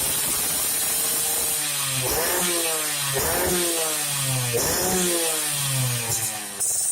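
Yamaha RX-King's two-stroke single-cylinder engine revving through an aftermarket YA MGM exhaust. It runs steadily, then gives three quick throttle blips about two, three and four and a half seconds in, each rising sharply in pitch and falling away.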